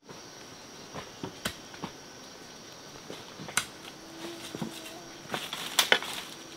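A few scattered sharp clicks and snaps, the loudest cluster near the end, over a faint steady hiss with a thin high hum.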